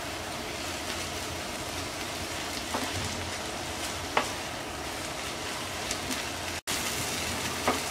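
Spinach and red lentils frying in oil in a non-stick pan with a steady sizzle as they are stirred with a wooden spatula, with a few light knocks of the spatula. The sound cuts out for an instant about two-thirds of the way in.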